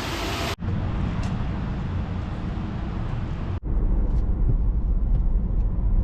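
Ride noise from a moving vehicle: a steady low rumble with hiss above it. It cuts off abruptly twice, about half a second in and again about three and a half seconds in, and the rumble is heavier and deeper after the second break.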